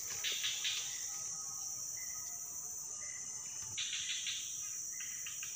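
Steady high-pitched drone of insects in swamp forest, with a few short scratchy bursts just after the start and again about four seconds in.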